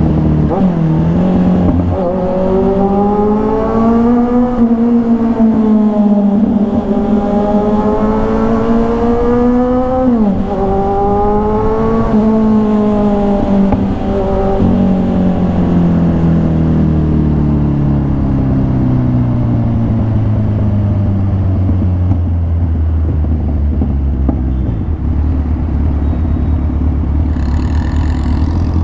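Kawasaki Ninja 1000's inline-four engine running through an SC-Project aftermarket exhaust while riding. The pitch climbs under acceleration with a quick drop at a gear change about ten seconds in, climbs again, then falls slowly as the bike slows and settles to a low steady note.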